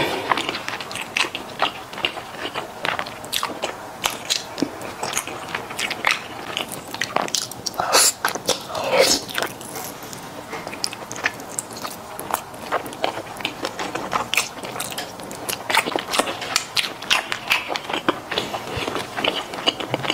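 Close-miked chewing and wet mouth smacks of someone eating sauce-glazed grilled eel, with many small sharp clicks; a louder, longer mouth sound about eight to nine seconds in.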